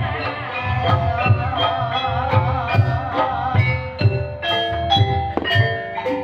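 Ebeg gamelan music played live: struck metallophones ring out a stepping melody over a steady, regular drum beat. A wavering melodic line runs over it for the first few seconds, then the metallophone notes carry the tune alone.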